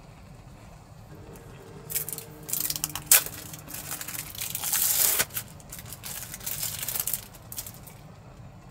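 Crinkling and rustling in a run of bursts lasting about five seconds, with one sharp crackle about three seconds in, over a steady low background hum.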